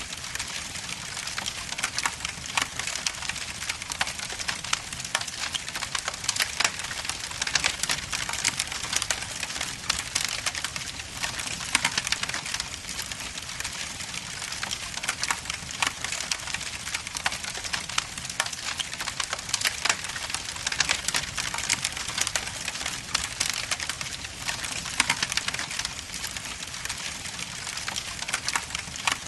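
Wood logs burning in a fireplace, crackling steadily with frequent sharp pops and snaps over a constant hiss.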